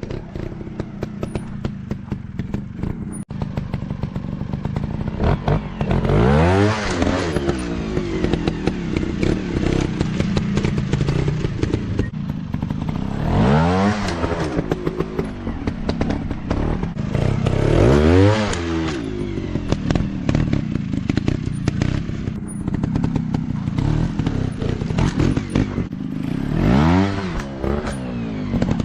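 Dirt bike engines running with a rattly, uneven note, revved hard four times, each rev rising and falling in pitch.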